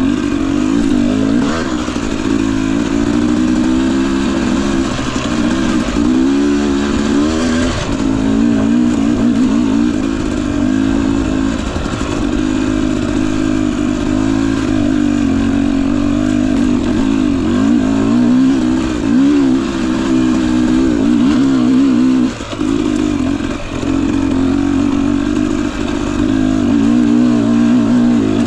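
Husqvarna TE250i fuel-injected two-stroke dirt bike engine running, its pitch wavering up and down continuously as the throttle is opened and closed.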